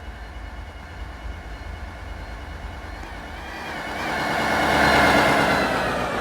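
Road vehicle passing close by, its rushing noise swelling to a peak about five seconds in and then fading, over a steady low road rumble.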